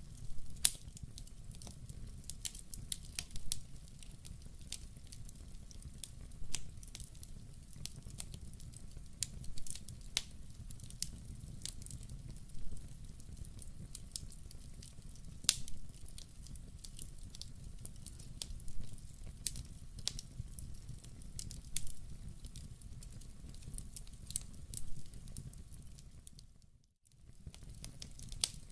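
Wood fire burning in a fireplace: a steady low rumble with frequent sharp pops and crackles. About two seconds before the end the sound briefly drops away to near silence and then comes back.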